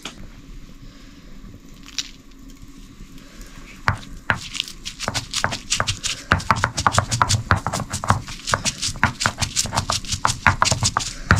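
Rapid, irregular crackling clicks start about four seconds in and go on at several a second, typical of hot oil spattering as potato chops fry in a pan.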